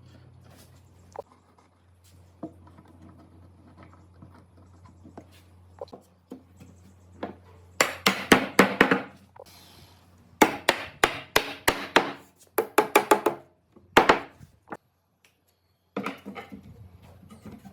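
Hammer blows on wood, struck in quick runs of several a second: a first run a little before halfway, a longer run of about three seconds soon after, a single blow, then more strikes near the end. Before the first run there are only faint light taps.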